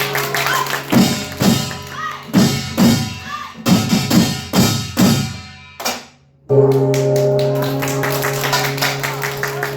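Samulnori percussion, Korean drums and hand gongs, striking a series of heavy, spaced beats about two a second that die away. The sound then cuts suddenly to steady classroom room noise with faint children's voices.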